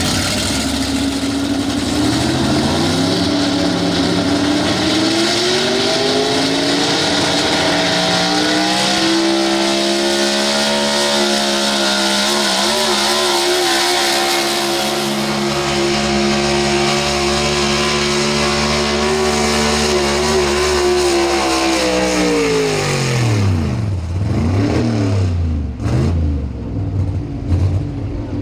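Pro Stock 4x4 pulling truck's engine under full load on a pull. Its revs climb over the first several seconds and hold high and steady for about twelve seconds. Then they drop sharply as the throttle comes off at the end of the pull, followed by a few short throttle blips.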